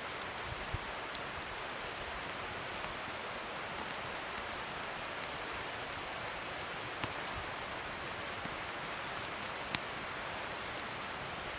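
Wood fire burning: a steady hiss with irregular sharp crackles and pops, the loudest about ten seconds in.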